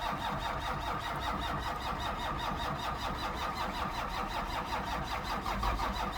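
12-valve Cummins 6BT diesel turning over on the starter with an even, rhythmic cranking beat, not catching. It is a very cold start: a sub-freezing engine with no grid heater or block heater to help it fire.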